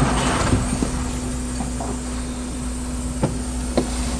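Steady car interior noise picked up by a dash camera, with a constant low hum and a faint high whine, and two small clicks near the end.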